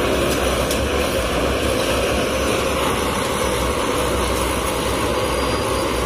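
Steady low rumble of a slowly moving rail-carrying freight train, with a couple of faint clicks about half a second in.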